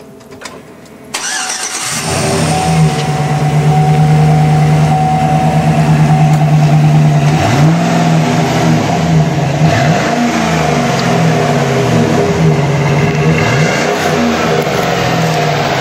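A Chevrolet V8 engine cranks and starts about a second in, then runs at a steady high idle, with three short blips of the throttle in the second half.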